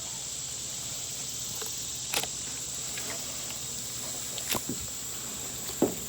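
A steady high-pitched chirring of insects, like crickets, runs underneath, with a few short clicks and knocks from knife work on a chicken carcass as a leg is cut off, the loudest near the end.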